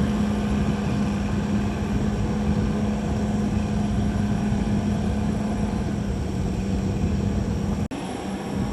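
Caterpillar D6R XL bulldozer's diesel engine running steadily under load, a constant drone over heavy machine noise. Near the end the sound cuts out for an instant and comes back quieter, without the drone.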